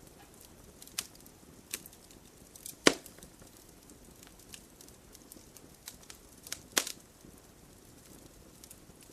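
Campfire burning wood, crackling with scattered sharp pops; the two loudest snaps come about three seconds in and near seven seconds, over a faint steady hiss.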